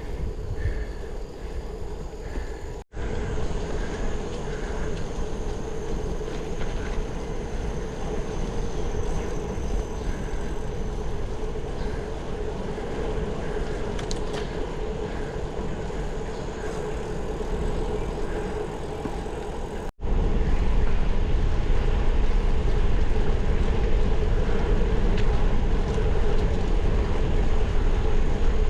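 Steady wind and road noise of a bicycle ride, with a low steady hum. It drops out suddenly twice, once early and once about two-thirds of the way through, and is louder after the second break.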